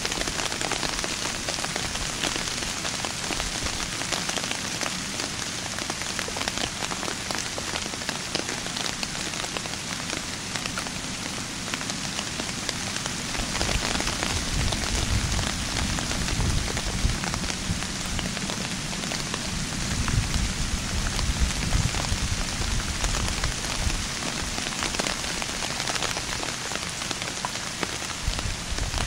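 Steady patter of rain on leaves, a dense even hiss of many small drops, with stronger low rumbling on the microphone about halfway through.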